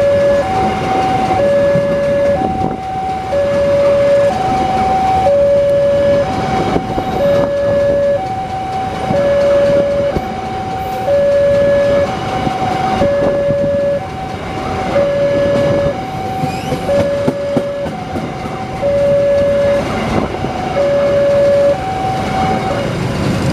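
Passenger train carriages rolling past close by, their wheels clicking over the rail joints with a steady rumble. A level-crossing warning alarm sounds over them throughout, alternating between two tones, each held about three-quarters of a second.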